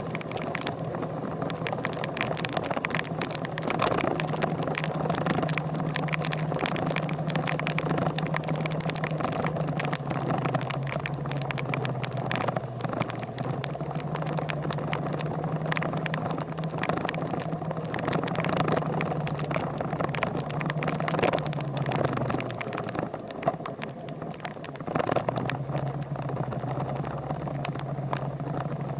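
A vehicle engine running steadily, its hum stepping between a higher and a lower pitch every few seconds, with many sharp clicks over a constant rushing noise.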